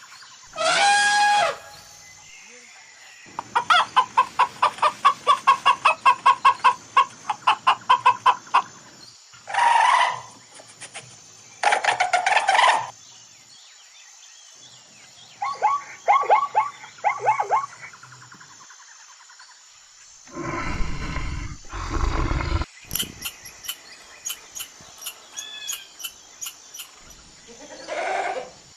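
A run of short animal calls of several different kinds, one after another: a single call about a second in, a fast train of about three calls a second from about 3 to 8 seconds in, more short calls, two loud, low-pitched calls around 20 to 22 seconds in, then a quick series of high chirps.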